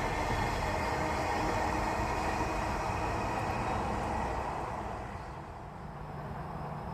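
A train running past on the rails, its noise fading away about five seconds in.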